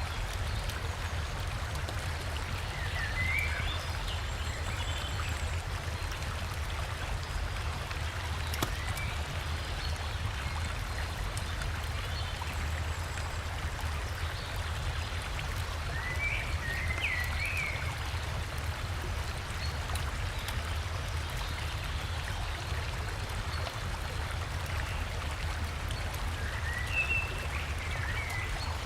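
Steady rushing of river water over a small waterfall, with a deep low rumble under it. A forest bird sings a short chirping phrase three times: a few seconds in, about halfway, and near the end.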